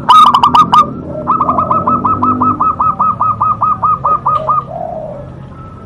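Zebra dove (perkutut) cooing: a short loud run of notes at the start, then after a brief pause a long, even series of about twenty quick notes, some six a second, over about three seconds.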